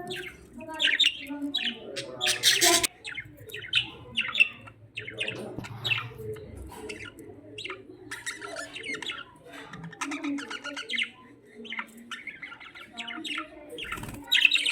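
Budgies chirping and chattering: a busy, irregular run of short high calls and squawks.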